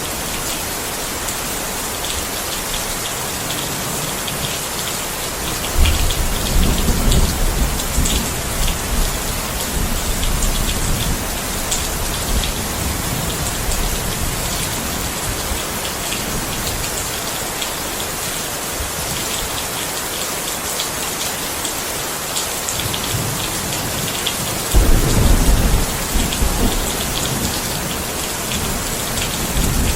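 Steady rain falling, with thunder rumbling low twice: once about six seconds in and again a few seconds before the end.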